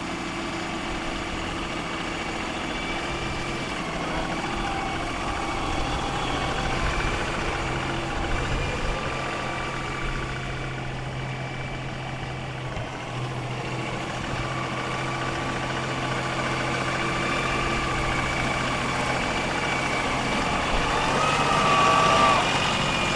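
LS XR3135 compact tractor's diesel engine running steadily while the tractor digs, getting somewhat louder near the end.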